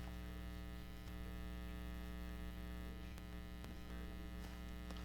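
Steady electrical mains hum, with a few faint ticks scattered through it.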